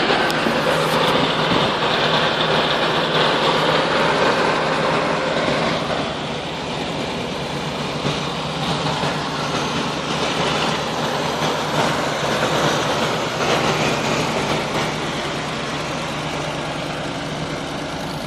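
Mercedes-Benz W107 V8 engine idling after a cold start. It runs a little louder for the first six seconds, then settles to a steady idle.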